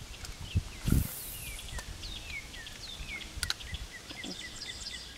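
Small songbirds calling, a run of short, quick falling chirps, over low outdoor background noise; about a second in a brief thump with a hiss is the loudest sound, and a sharp click follows a few seconds later.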